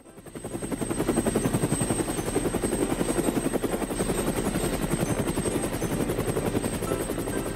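Helicopter rotor sound effect: the blades chop in a rapid, even beat, fading in over the first second and then holding steady.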